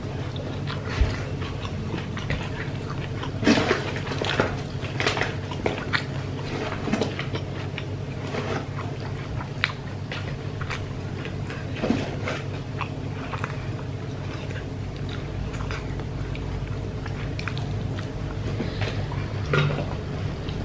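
Close-miked chewing and mouth smacks of someone eating smashed fried chicken and rice by hand, with short irregular clicks scattered throughout. A steady low hum runs underneath.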